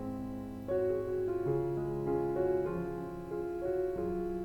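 Soft, gentle background piano music, a slow melody of sustained notes.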